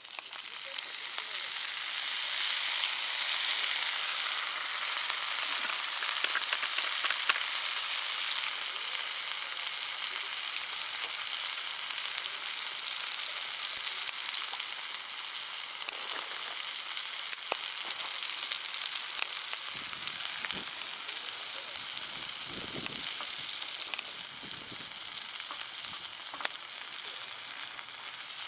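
Meat sizzling loudly on a cast-iron jingisukan (Genghis Khan) grill pan heated over a wood fire, a dense steady frying hiss that swells in the first couple of seconds and then holds.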